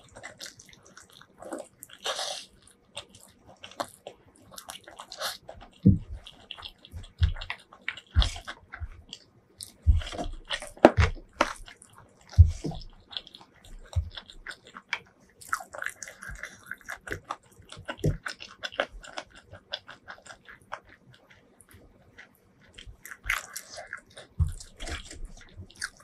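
Close-miked eating sounds: chewing and wet mouth smacks, with many sharp clicks and a few deeper thuds in the middle.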